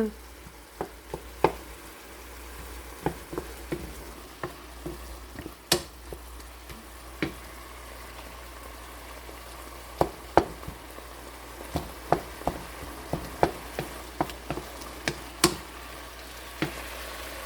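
Tomato, onion, garlic and ginger sauté sizzling in a pan, with irregular sharp knocks of a utensil against the pan as the mixture is stirred and mashed.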